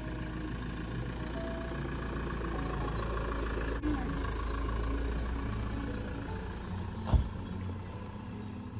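A car driving, with a steady low rumble of engine and road noise. There is a short click about four seconds in and a sharp thump with a falling swish about seven seconds in.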